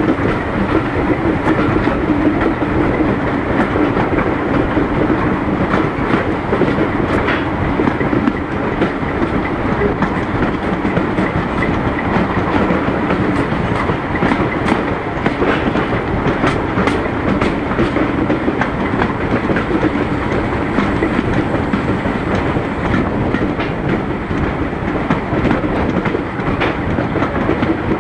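Passenger train hauled by a BR Class 07 diesel shunter running steadily, heard from a coach window: a continuous rumble of wheels on track with frequent sharp clicks over rail joints and the drone of the diesel engine ahead.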